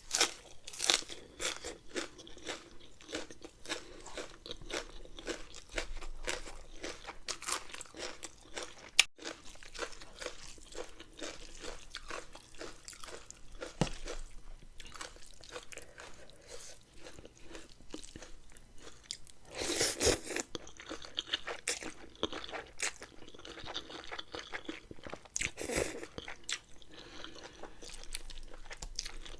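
Close-up chewing and crunching of spicy noodle salad and raw vegetables, many short crackly bites throughout, with two louder crunching bites about two-thirds of the way in and again a little later.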